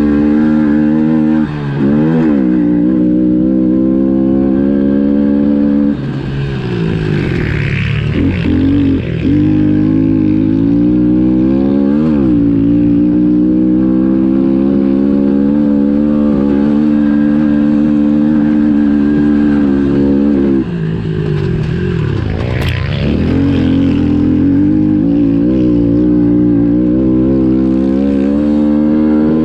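Pit bike's small single-cylinder four-stroke engine running hard, held at steady high revs for long stretches, with the revs dropping and climbing back several times as the throttle is rolled off and on again.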